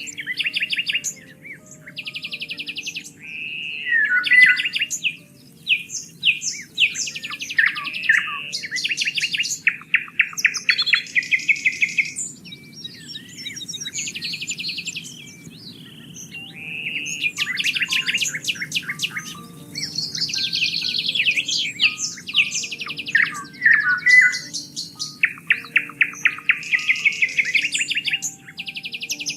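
Several songbirds chirping and singing in overlapping calls and fast rattling trills, with a quieter stretch near the middle, over a low steady background noise.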